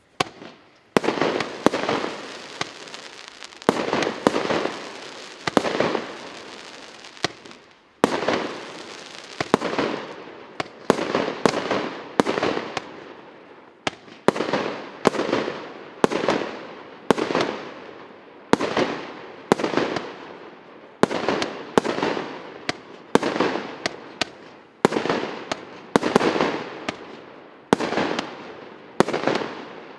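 A 48-shot consumer fireworks cake firing its volleys one after another: a sharp shot roughly every half second to a second, each followed by a fading aerial burst, with a brief lull about seven seconds in.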